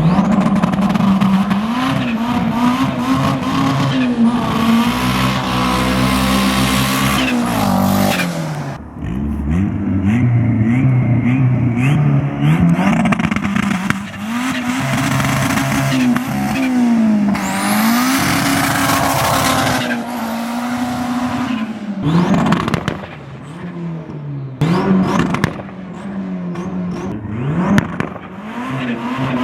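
Turbocharged Honda drag car engine revving hard and easing off again and again, its pitch climbing and dropping, with loud spells of rushing noise over it.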